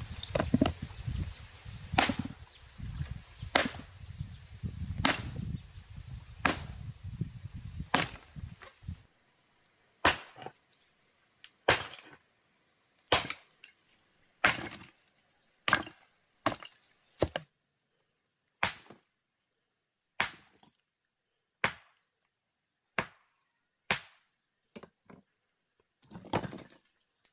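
A tool chopping repeatedly, about one sharp strike every second or so, with a low rumble under the first nine seconds that then stops.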